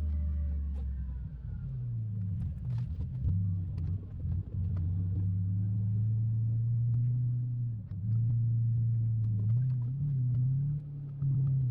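The 8.1-litre big-block gas V8 of a 2002 Chevrolet Silverado plow truck running steadily, its low hum shifting up and down in pitch several times as the truck speeds up and slows, with scattered light clicks and knocks.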